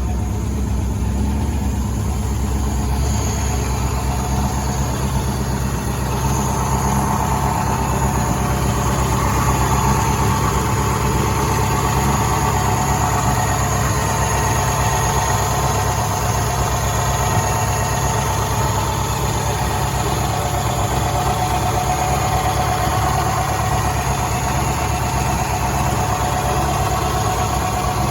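1963 Daimler SP250's 2.5-litre V8 idling steadily while still warming up from a cold start.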